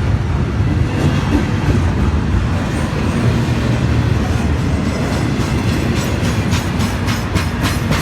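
Intermodal freight train passing close by: a steady heavy rumble of wheels on rail, with a quick run of wheel clicks over rail joints in the last couple of seconds.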